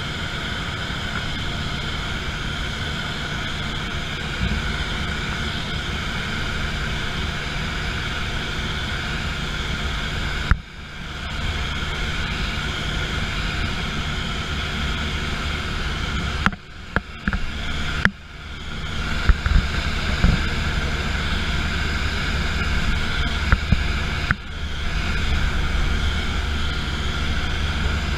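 Steady aircraft engine and airflow drone. It drops away abruptly a few times, about ten seconds in, between sixteen and eighteen seconds, and about twenty-four seconds in, with a few clicks.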